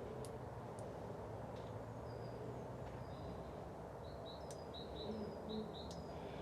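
Faint birds chirping over a steady low background hum, with a quick run of short, high, repeated notes about four seconds in.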